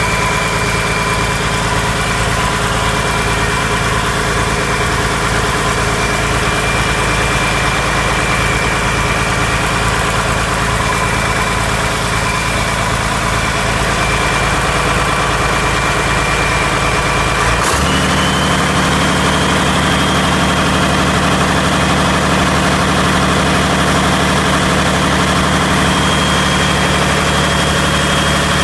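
Komatsu SAA6D140-3 six-cylinder turbocharged diesel engine running steadily at idle with a high whine. About two-thirds of the way through, its speed steps up suddenly and holds there, with the whine rising in pitch.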